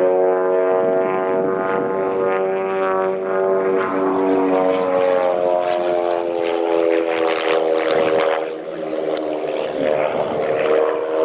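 Propeller aircraft flying by: a steady engine and propeller drone whose pitch shifts down and up as it passes.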